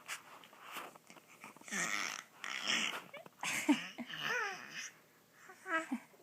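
A child making pretend dinosaur noises with her voice: a series of breathy, raspy roars and growls, the later ones pitched and wavering.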